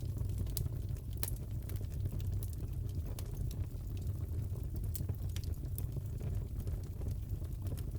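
Fireplace fire crackling: a steady low rumble with scattered sharp snaps and pops.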